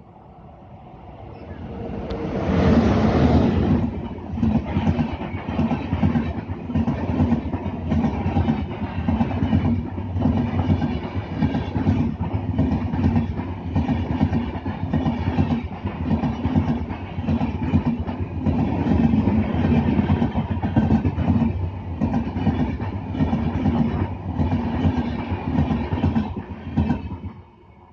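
Mumbai suburban electric local train running on the track: the sound swells over the first few seconds, then keeps up a steady, rhythmic clickety-clack of wheels over rail joints, cutting off suddenly near the end.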